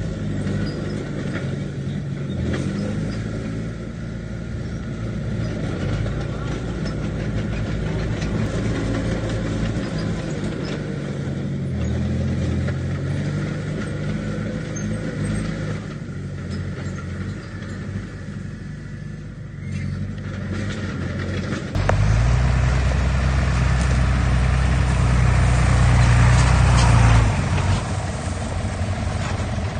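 Diesel engine of heavy earthmoving machinery running, its pitch rising and falling with the work. About 22 seconds in it gets suddenly louder for about five seconds, then drops back.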